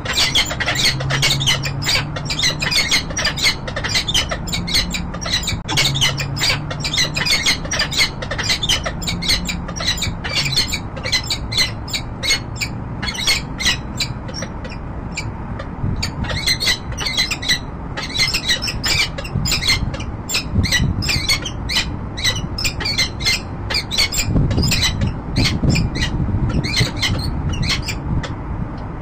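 Peregrine falcon calling in a rapid, unbroken run of short, harsh, high notes.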